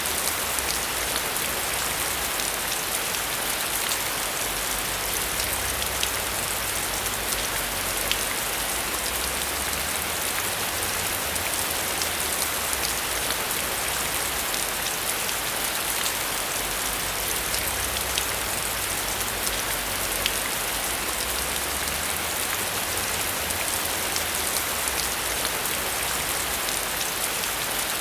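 Steady heavy rain falling on a surface, a constant hiss dotted with many individual drop ticks.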